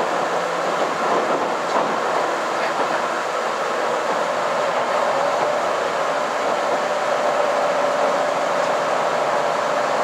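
Steady running noise of a KiHa 261 series diesel limited express heard from inside the passenger cabin: wheels rolling on the rails and the car's own drone. A faint steady whine comes in about halfway through.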